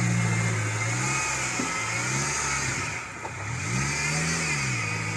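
Car engine revving under load, its pitch rising and falling: the revs drop about half a second in, ease off around three seconds in, then climb again and fall back near the end.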